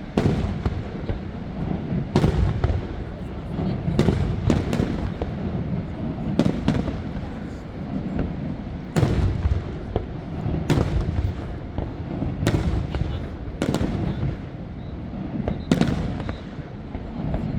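Fireworks bursting in a steady barrage: sharp bangs and booms every second or two, some in quick clusters, over a continuous low rumble.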